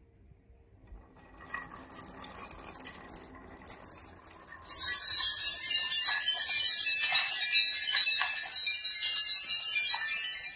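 Marbles rolling down a wooden marble run, a soft rolling rumble building from about a second in. About five seconds in it turns into a loud, dense clatter of many marbles clicking and clinking together.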